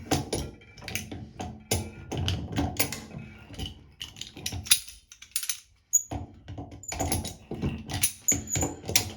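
Vice grips clicking and clattering against the metal body of a thermostatic shower valve as it is gripped and turned to unscrew it, in irregular sharp clicks and knocks with a short lull partway through.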